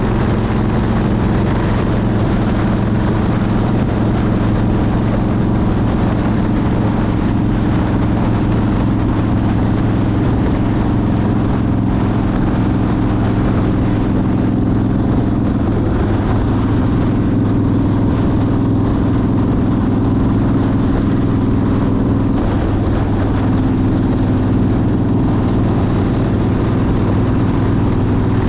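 Motorcycle engine running at a steady cruising speed, its engine note holding nearly constant, with wind and road noise.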